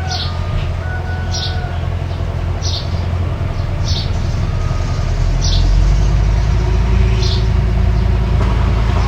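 Mini bulldozer's engine running steadily, getting louder about halfway through as it works harder or comes closer. A short high chirp repeats about every second and a quarter over it.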